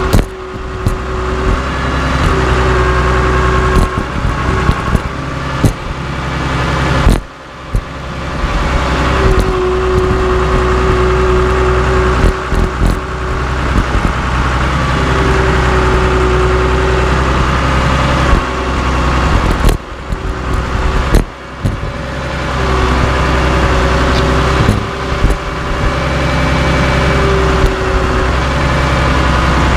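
Cat D3C LGP bulldozer's diesel engine running steadily under work, with a whine that comes and goes and scattered sharp knocks. The level drops sharply a few times.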